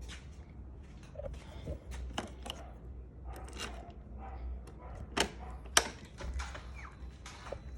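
Scattered light mechanical clicks and knocks over a low steady hum, with two sharper clicks a little after five seconds in.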